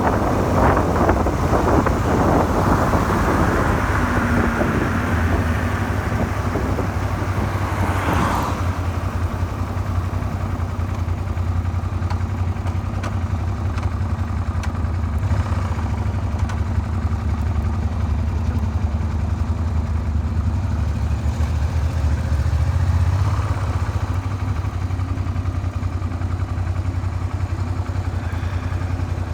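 Suzuki SV400 V-twin engine running steadily at low speed, its crankshaft makeshift-repaired with a file. Wind rushing over the microphone dies away about eight seconds in.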